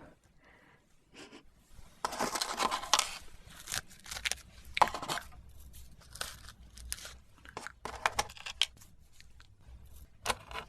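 Packaging being torn open and crinkled by hand, most likely the Paqui One Chip Challenge box and foil chip wrapper. The rustling and tearing come in irregular bursts with sharp crackles and are loudest about two seconds in.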